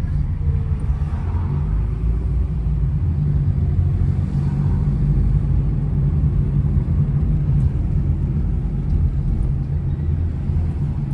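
A moving car's engine and tyre noise, heard from inside the cabin as a steady low drone.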